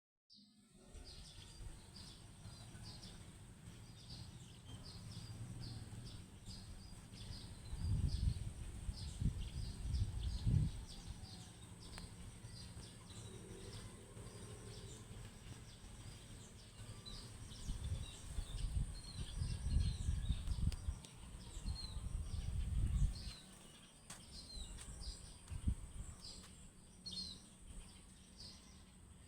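Small birds chirping over and over in short, high notes, with wind buffeting the microphone in low rumbling gusts, strongest about a third of the way in and again from the middle to about three quarters through.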